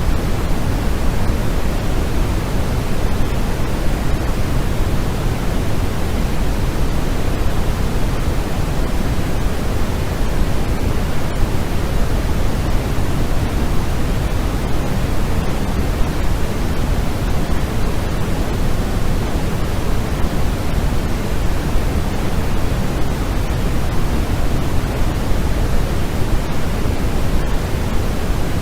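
Steady white-noise sleep sound: an even, unchanging rushing hiss, heavier in the low end than in the treble.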